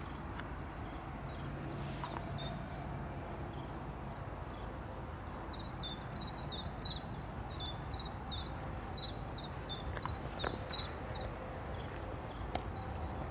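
A songbird singing: a long series of short, high notes that each drop in pitch, a few per second, with a flat high trill near the start and again near the end, over a steady low background rumble.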